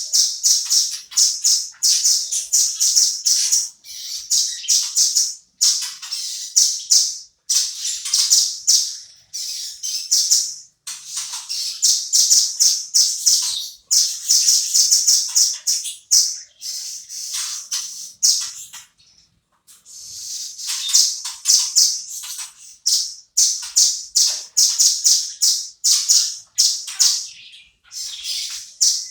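Velvet-fronted nuthatch calling: rapid trains of sharp, high-pitched notes in bursts of one to three seconds, separated by short pauses.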